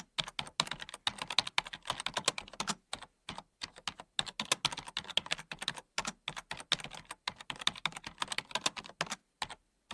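Keyboard typing: quick, irregular key clicks in bursts with a few short pauses, stopping near the end.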